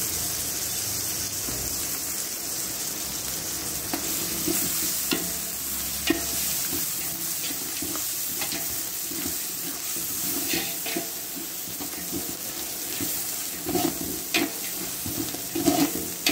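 Dalcha masala of mutton bones, tomatoes and chilli powder sizzling steadily in oil in a large pot while a ladle stirs it, now and then scraping and knocking against the pot, more often near the end. This is the tempering being fried before water is added.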